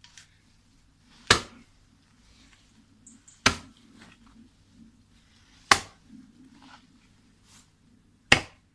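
Four heavy chopping strikes about two seconds apart, a tool cutting into laurel hedge roots.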